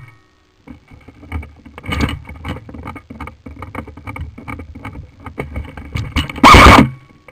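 Irregular rustling with small clicks and knocks, like a person moving through brush. About six and a half seconds in, a brief loud burst of noise overloads the microphone.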